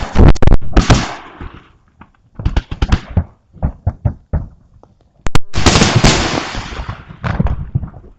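Fireworks salute heard close to the launch site: rapid sharp bangs, with two long crackling, hissing bursts, one at the start and one about five and a half seconds in, each fading over a couple of seconds.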